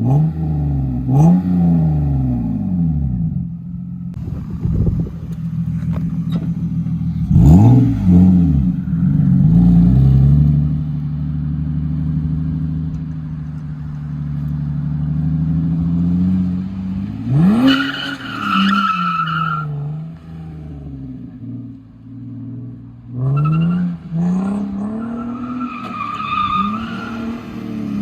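Lexus IS300's 2JZ-GE straight-six being revved through a cheap aftermarket cat-back exhaust on the stock header. The revs blip up and fall back again and again, with a longer held rev in the middle. A higher-pitched note rides over the later blips.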